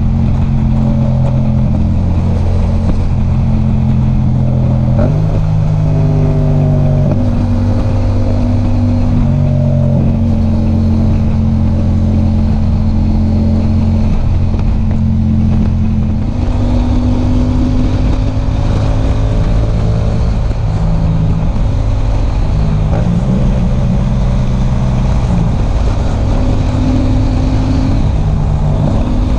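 Yamaha MT-07 motorcycle's parallel-twin engine running while riding, its note stepping up and down in pitch several times, over a steady low rumble.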